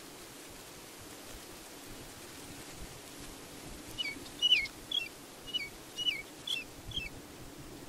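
A bird calling: a run of about eight short, hooked chirps, roughly two a second, starting about halfway in, over a steady background hiss.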